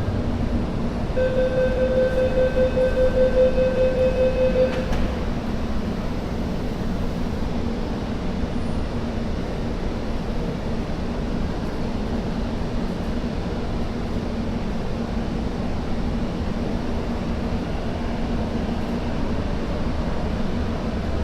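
MTR Kwun Tong Line C-stock train at a station platform: a rapid, pulsing door-closing warning beep sounds for about four seconds from about a second in. It then gives way to the steady rumble and hum of the train departing.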